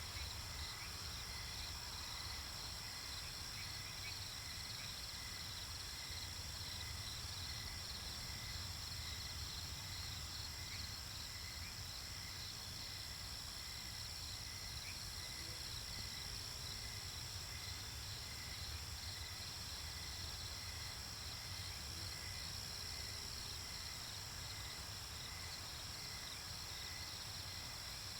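Night-time nature ambience of crickets and other insects chirping steadily, some in regular pulses, over a low steady rumble.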